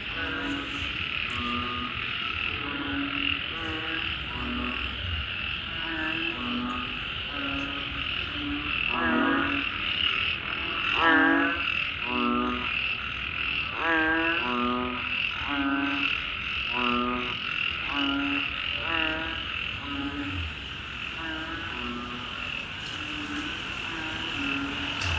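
Frogs chorusing after rain: short low croaks about once a second, mixed with pulsed, rattling calls, over a steady high-pitched drone.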